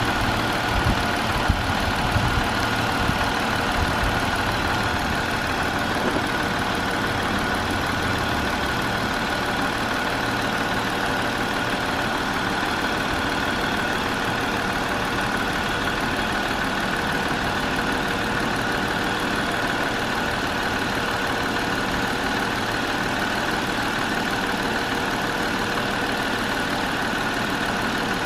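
2020 Jeep Wrangler engine idling steadily with a constant whine, a rougher low rumble in the first several seconds easing off after that.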